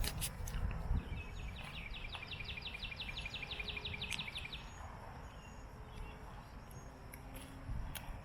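A bird's rapid trill of short, even notes, about five or six a second, lasting about three and a half seconds over a steady low outdoor rumble. A couple of sharp knocks come near the start.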